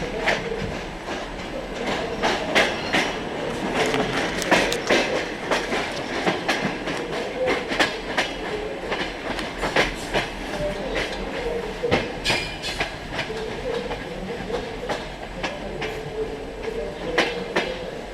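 Railway train clatter: irregular clicks and knocks over a steady running hum.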